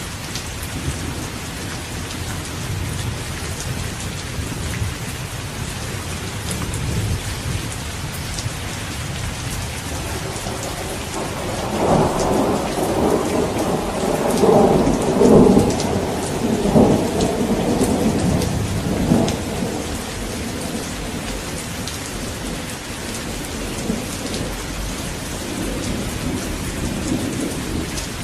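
Steady heavy rain with a roll of thunder that swells up about ten seconds in and rumbles for several seconds before dying back to the rain.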